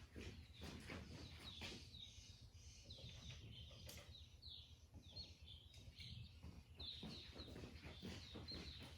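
Near silence with faint birds chirping: many short, high, falling chirps, more of them in the second half, over a faint low hum.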